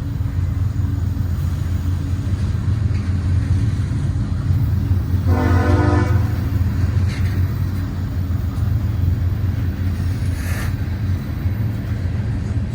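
Diesel freight train passing close by with a steady low rumble, and a single short horn blast of about a second roughly five seconds in.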